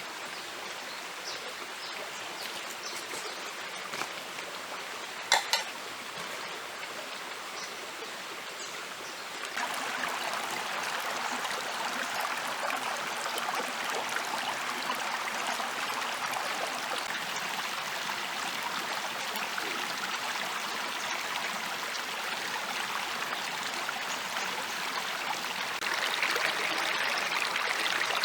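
Steady rushing of flowing water, like a stream. It grows louder about a third of the way in and again near the end, with a couple of sharp clicks early on.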